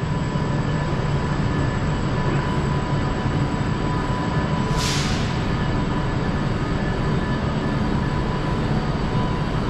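Avanti West Coast Pendolino electric train standing at the platform, its onboard equipment giving a steady hum and whir with a thin whine. A short hiss of air comes about halfway through.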